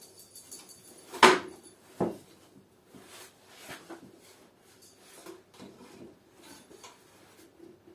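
Pallet-wood pieces being handled during assembly: two sharp wooden knocks a little under a second apart, the first the loudest, then quieter knocks and rubbing of wood.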